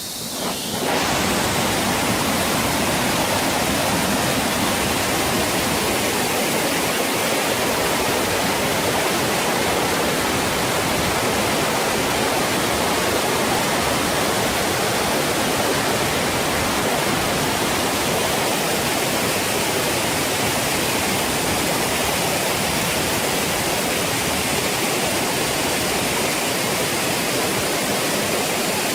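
Steady loud rush of a tiered waterfall's falling water, briefly quieter for the first second.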